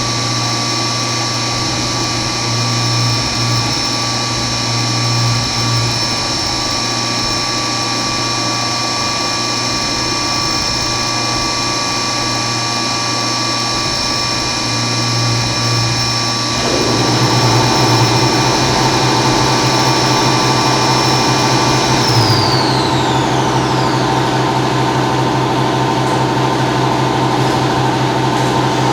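Milling machine running while cutting 6061 aluminum billet, a steady mechanical whine with several fixed tones. About 17 s in the lower part of the sound shifts and grows louder, and about 22 s in a high whine glides down in pitch.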